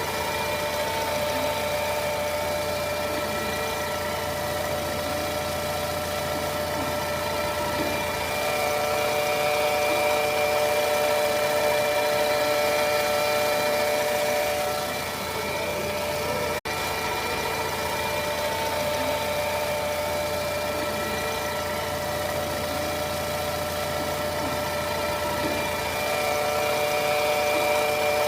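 2014 Volkswagen Scirocco 1.4 TSI twincharger engine idling, with a steady high-pitched whine of several tones over the engine's low hum. The owner cannot tell where the whine comes from. The sound briefly cuts out about two-thirds of the way through.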